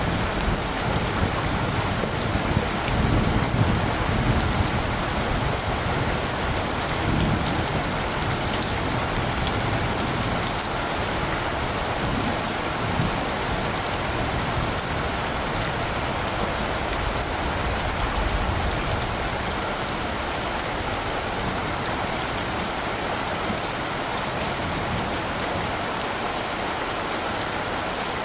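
Steady rain, a dense hiss with many small drop strikes. A low rumble of light thunder swells through the first half and fades out in the second.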